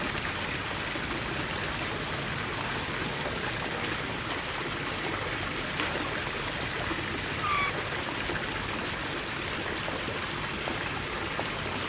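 Steady running water, with one short parrot call about seven and a half seconds in.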